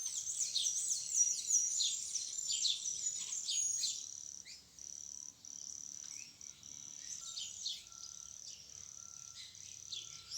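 Small birds chirping in a rapid flurry of quick falling high notes for about the first four seconds, then thinning out. Under and after them a steady high insect buzz runs with short breaks.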